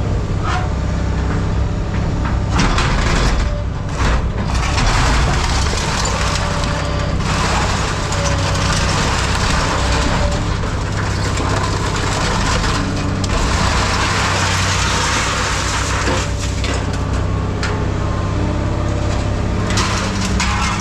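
A heavy scrap-yard machine's engine running steadily while scrap metal is crunched and scraped in long, repeated stretches as it is grabbed and handled.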